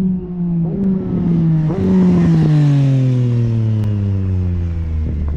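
Triumph Street Triple RS 765 cc inline-three engine through an unbaffled LeoVince LV One EVO slip-on exhaust. The engine note jumps up twice in the first two seconds, then falls steadily as the revs drop to a low, deep note. It is very loud.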